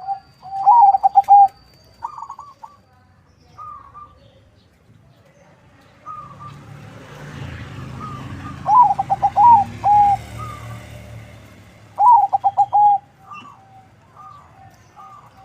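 Zebra dove (perkutut), a local × Bangkok crossbreed, cooing in short rapid phrases of staccato notes. The loudest phrases come near the start, a little past halfway, and a few seconds before the end. Softer calls fall in between, and a low rumble swells and fades in the middle.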